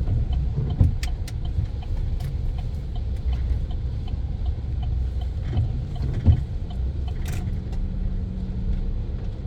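Steady low rumble of a pickup truck heard from inside the cab while it is being driven, with a few light clicks and rattles. There are two short knocks, one about a second in and a louder one a little past six seconds.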